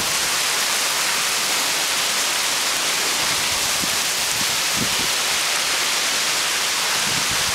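Heavy downpour from a rain squall: a steady, dense hiss of rain, with a few faint low gusts of wind on the microphone.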